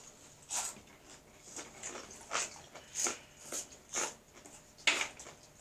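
Crunchy spicy corn snacks, Hot Fries and Flaming Hot Cheetos, being bitten and chewed: a run of irregular sharp crunches, the loudest near the end.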